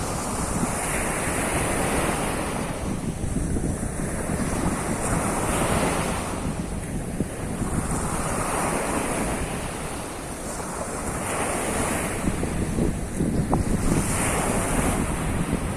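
Sea surf washing onto the shore, a wave surging in every three seconds or so over a continuous wash, with wind rumbling on the microphone.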